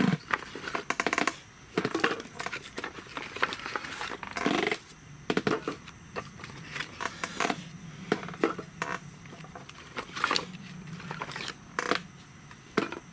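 Wood bonfire crackling and snapping in irregular clicks, with a few louder knocks and scrapes from wood or gear being handled.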